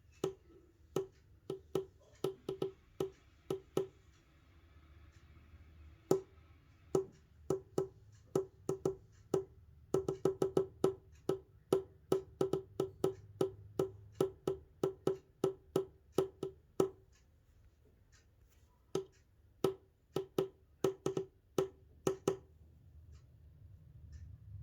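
Sharp, hollow wooden knocks tapped out in uneven runs, up to several a second, each with a short ringing tone, and with pauses between the runs.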